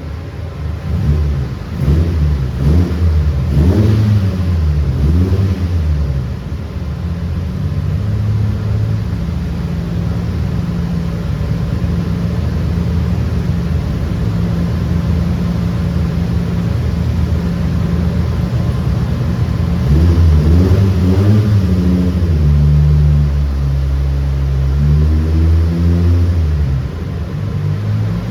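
Toyota Tazz's swapped-in 20-valve four-cylinder engine revving up and down several times, then running at a fairly steady pitch for a long stretch before revving again near the end.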